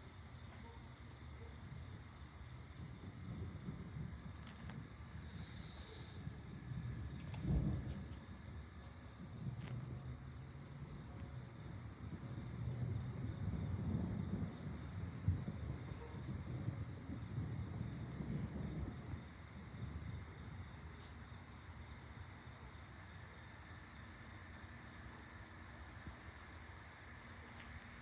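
Crickets chirping steadily in a dense chorus, with thunder rumbling low underneath, building from a few seconds in, peaking around a third of the way through and again near the middle, then fading out before the last third.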